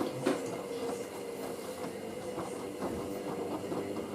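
Hoover SIX AAA160 washing machine's drum motor running with a steady hum, together with irregular clicks and knocks from the drum and wet load, as the machine goes into its first intermediate spin.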